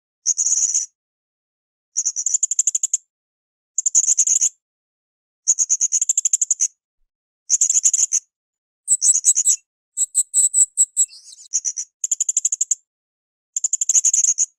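Blue-crowned hanging parrot (srindit) calling in short bursts of rapid, shrill, very high-pitched notes, roughly one burst every second and a half with silence between; about nine seconds in the phrases run together into a longer, more varied stretch.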